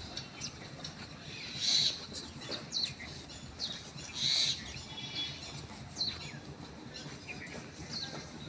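Small birds chirping: many short, quick downward-sweeping chirps, with two louder calls about two seconds and four seconds in.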